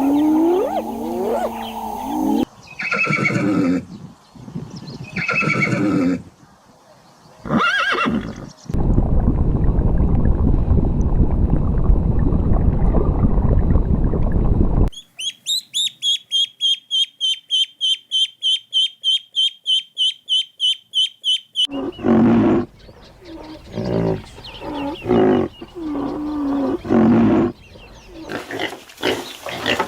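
A succession of different farm animal calls, one after another: several calls in the first seconds, a steady rough low sound in the middle third, then a fast, even run of high chirps, about four a second, followed by lower calls near the end.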